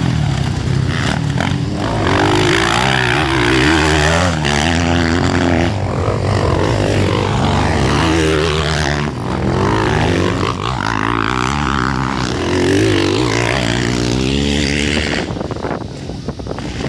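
Several motocross bike engines racing together, revving up and down as the riders work the throttle, easing off somewhat near the end.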